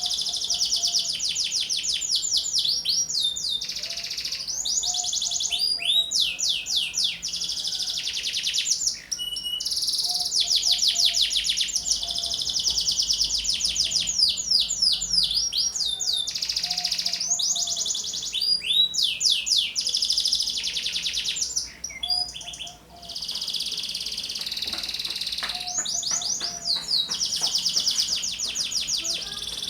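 Young domestic canary singing continuously: long, fast trills and rolls of rapidly repeated high notes, with two short breaks, one about a third of the way in and one about three quarters in.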